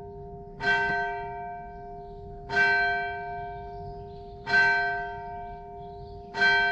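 A bell tolling four times, about two seconds apart, each stroke at the same pitch and ringing on until the next.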